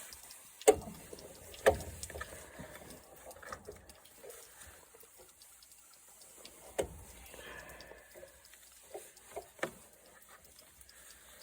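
Scattered sharp knocks and clunks of hands and tools working at a lawn mower part, trying to break it off. The two loudest strikes come about a second in and near two seconds, with a few lighter knocks near seven and ten seconds.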